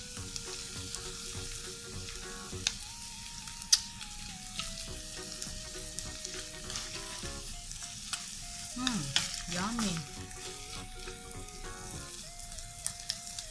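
Canned tuna sisig sizzling and crackling in a stainless steel pan while a spatula stirs and scrapes it, with a few sharp clicks of the spatula against the pan, the loudest a few seconds in. Faint background music with a simple melody plays under it.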